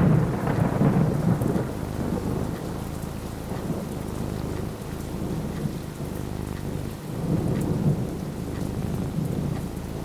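Thunder rumbling over steady falling rain: a loud rumble right at the start that dies away over a couple of seconds, then a second, softer rumble near the end.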